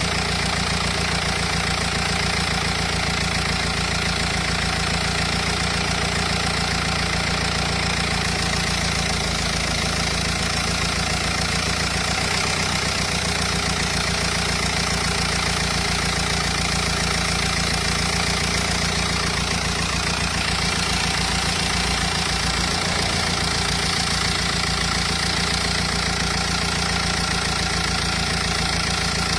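Renault Espace 2.0 dCi four-cylinder turbodiesel engine idling steadily.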